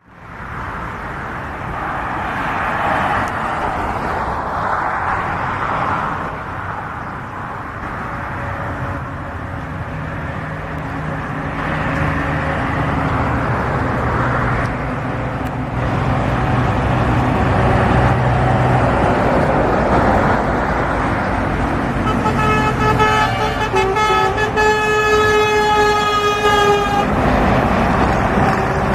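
Scania truck driving past on a highway, its engine and road noise building. Near the end it sounds a loud multi-tone air horn held for about five seconds.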